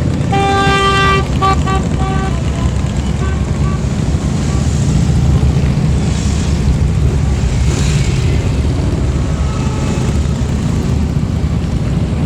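A large group of motorcycles riding past with a dense, steady low engine rumble. A horn sounds for about a second near the start, then gives several short toots.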